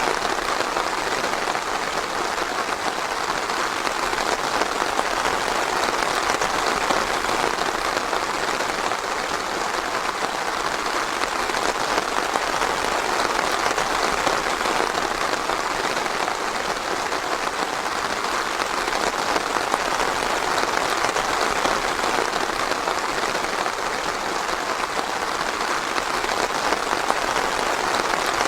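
Steady, even rain falling, a dense hiss of drops with no thunder.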